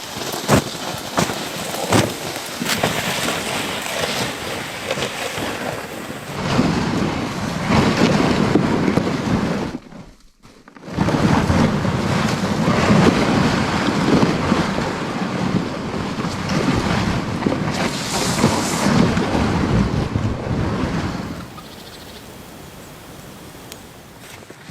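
Wind gusting across the microphone, with scattered sharp knocks in the first few seconds; it drops out briefly about ten seconds in and is quieter near the end.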